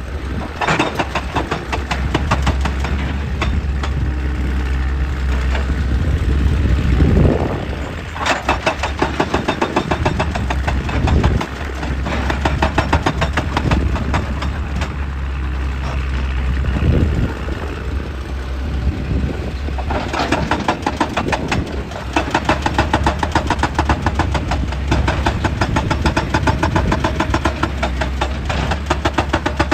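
Excavator's diesel engine running under a steady low drone while a hydraulic breaker hammers rock in fast, evenly spaced blows, stopping briefly several times and starting again.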